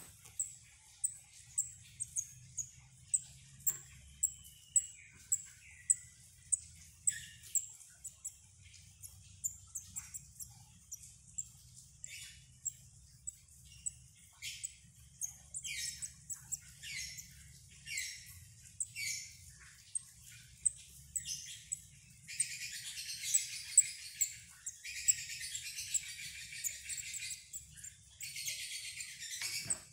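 Young cabe jawa (flowerpecker) chicks chirping: thin, very high single chirps at first, roughly one a second, then a run of fast continuous chirping from about two-thirds of the way through.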